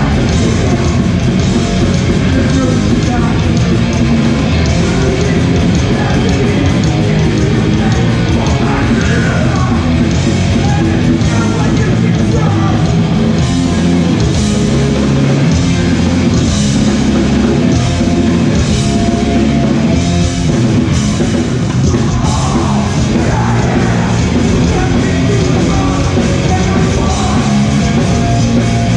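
Live hardcore punk band playing loud and steady, with distorted guitars, bass and drums and a shouted lead vocal.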